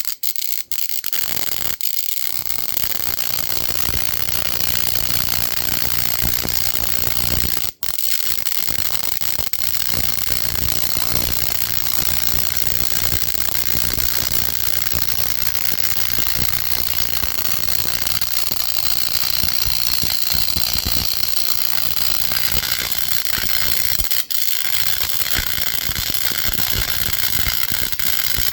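High-voltage spark gap firing continuously as the saltwater capacitor discharges across it: a loud, dense, rapid crackle of sparks. It cuts out for an instant about eight seconds in and again near the end.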